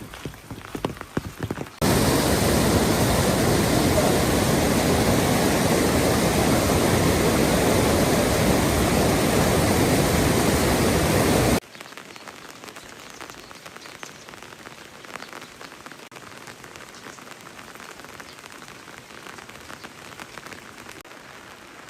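Heavy rain pouring, a loud even hiss that starts abruptly about two seconds in and cuts off sharply about ten seconds later. After it, lighter rain patters with scattered drips.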